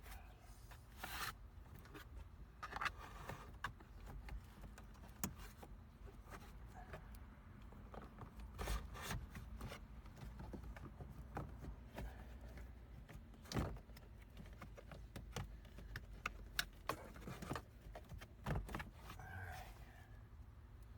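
Irregular clicks, taps and rustling from hands working wires and plastic interior trim panels inside a minivan, with a few louder knocks scattered through.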